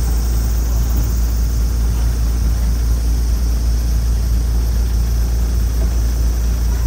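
Small narrow-gauge train running slowly along the track, heard from on board: a steady low rumble with no distinct rail clicks.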